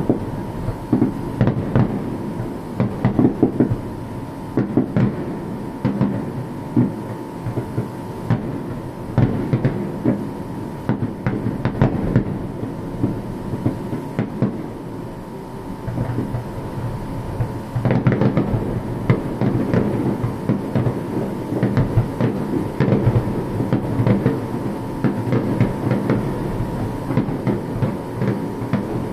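Fireworks going off in quick succession: a dense run of booms and crackling, easing briefly past the middle and thickest from about 18 s on. A thin steady high tone runs underneath.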